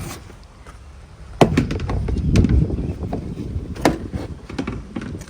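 Small metal engine parts clattering and knocking in a container as it is handled and moved, a run of sharp clicks over a low rattling rumble.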